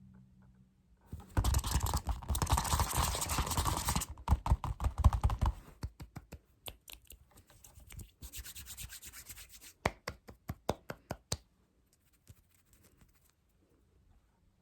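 Fast, rough scratching close to the microphone, breaking into quick sharp taps, then a second shorter stretch of scratching and a few loud separate taps before it goes quiet.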